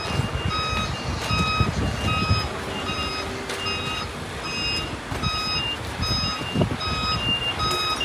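Electronic warning beeper sounding a steady string of evenly spaced short, high beeps over a low rumble of machinery.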